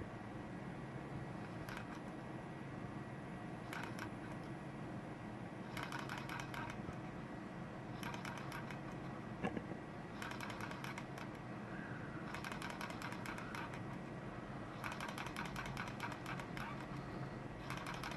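Small two-flywheel model Stirling engine being started on its alcohol burner, clattering in bursts of rapid ticks every second or two. The bursts grow longer toward the end as the engine begins to keep running.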